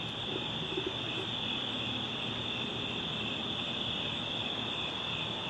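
Crickets chirping steadily in one unbroken high-pitched band.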